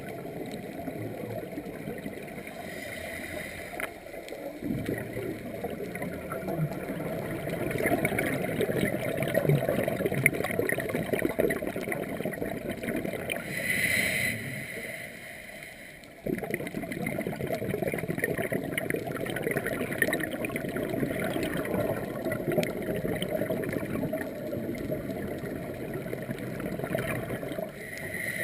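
Scuba diver's regulator breathing heard underwater: long stretches of crackling exhaled bubbles, broken by a short lull about halfway through.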